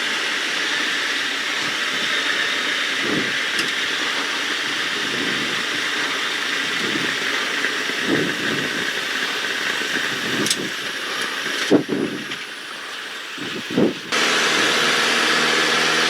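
Carbon Cub light aircraft heard from the cockpit: steady engine and airflow noise with a hiss, broken by a few dull thumps. The noise drops briefly about twelve seconds in, then a steadier engine hum with an even pitch comes in about fourteen seconds in.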